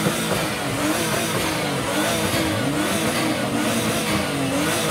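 Tuned cars revving their engines while parked, a Nissan VQ V6 among them, in a rev battle: several engine notes overlap, each rising and falling again and again.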